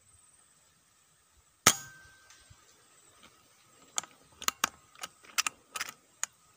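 A single sharp shot from a .177 PCP bullpup air rifle about a second and a half in, followed a couple of seconds later by a quick run of about nine sharp clicks.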